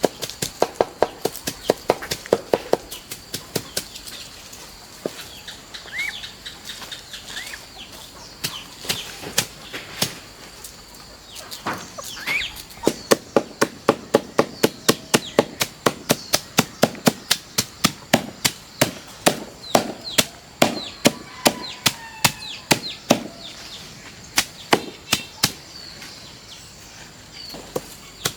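Repeated sharp chopping strikes, about three a second, in runs broken by short pauses, with a few short chirping bird calls between them.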